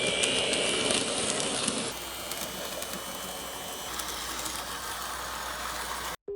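N gauge model train running on the track: a small electric motor's high-pitched whine over a steady rattle of wheels on rail. The whine is stronger for the first two seconds, then fainter after a cut.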